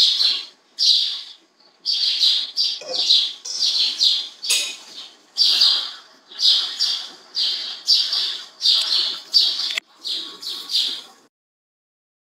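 A small bird chirping over and over, short high calls about two a second, until the sound cuts out abruptly near the end.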